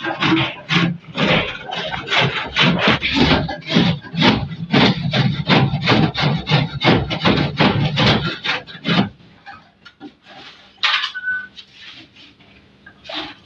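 Rapid back-and-forth rasping strokes of a hand tool on wood, about four a second, stopping about nine seconds in, with a few scattered faint knocks after.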